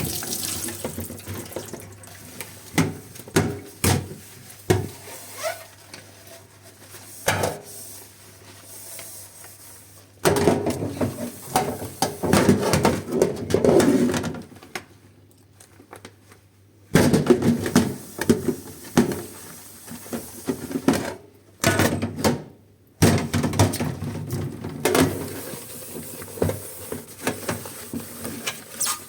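Dishes being washed by hand at a sink: scattered clinks and knocks of dishware, then stretches of dense scrubbing and clattering, broken by two short pauses.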